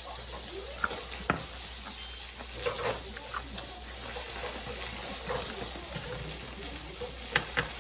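Kimchi pancake batter sizzling in oil in a frying pan: a steady hiss, broken by a few light clicks of utensils against the pan or dishes.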